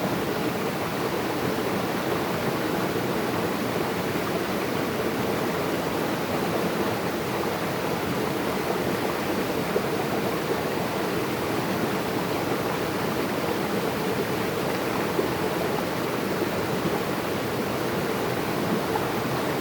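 Water running steadily over rocks, a continuous rushing of a stream or small waterfall.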